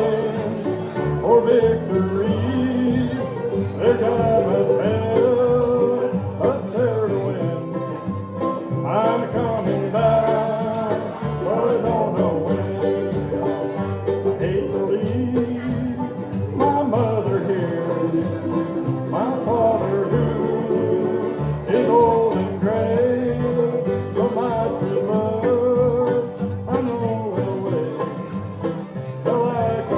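Live bluegrass band playing an up-tempo number, with banjo and acoustic guitar in the mix.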